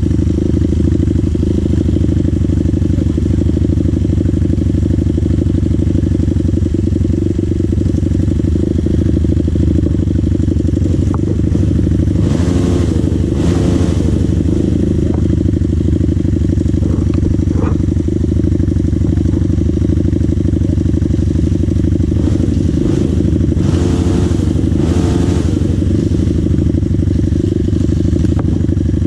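Dirt bike engine running steadily as the bike is ridden, with a loud, continuous low rumble. Two short swells of higher hiss come about twelve and about twenty-four seconds in.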